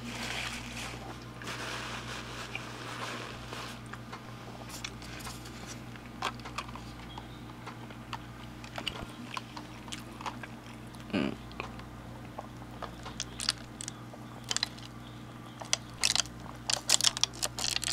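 Close-up mouth sounds of a person drinking a soda and smacking his lips: a stretch of sipping near the start, then scattered wet clicks and smacks that come more often toward the end, over a steady low hum.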